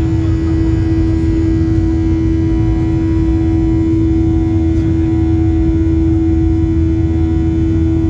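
Boeing 737 cabin noise during take-off: the turbofan engines run steadily under power, with a strong steady hum and a low rumble, as heard inside the cabin.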